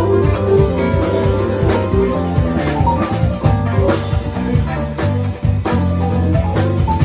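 A band playing instrumental music with guitar and drum kit: a steady beat under a moving bass line and melody.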